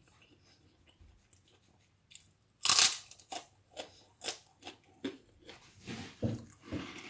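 A person biting into a crisp piece of food with one loud crunch about two and a half seconds in, then chewing it with crunchy bites about twice a second, close to the microphone.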